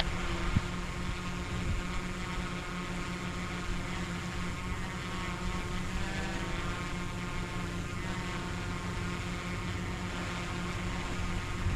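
Diesel locomotive engine running with a steady, pitched drone.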